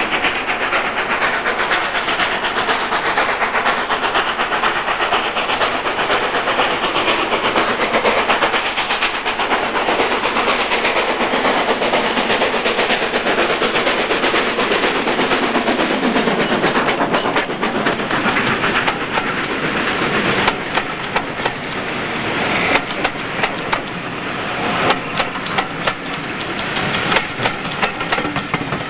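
Steam train passing: a loud, steady rush and hiss of steam from the locomotive. About two-thirds of the way through this gives way to a regular clickety-clack of carriage wheels over rail joints as the coaches go by.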